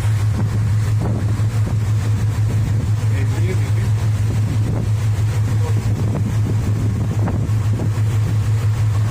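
A boat's engine running steadily with a constant low drone, with wind noise on the microphone.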